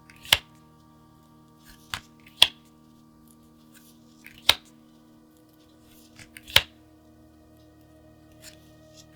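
Sharp plastic clicks and snaps from handling a pack of card sleeves and its packaging, five in about seven seconds, over a faint steady drone.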